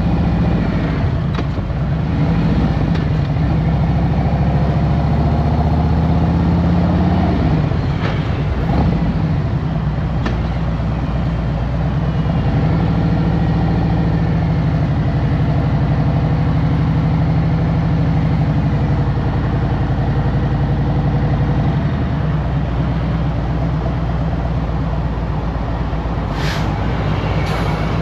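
Harley-Davidson Road Glide Special's Milwaukee-Eight V-twin engine running on the road, its note shifting and dipping about eight seconds in and then holding steady. Two brief sharp high sounds come near the end.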